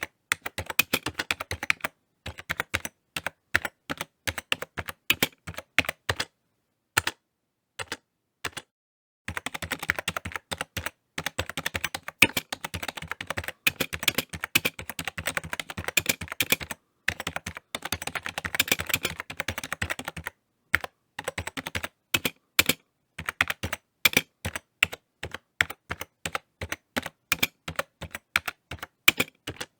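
Typing on a computer keyboard: fast, irregular key clicks in runs, with brief pauses and one longer pause of about three seconds roughly a third of the way in.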